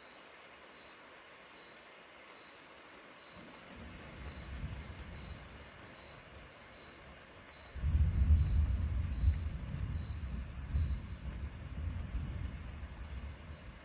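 Distant rolling thunder: a faint low rumble about three and a half seconds in, then a louder roll starting about eight seconds in that swells and fades in waves until the end. Short high-pitched chirps repeat about twice a second throughout.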